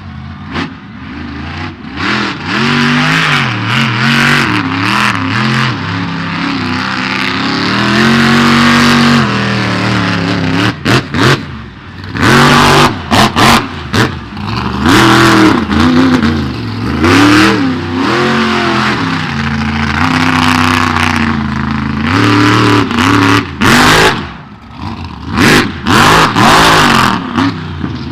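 Monster truck engine revving hard over and over during a freestyle run, its pitch climbing and dropping every second or two, with short loud peaks as the throttle is opened.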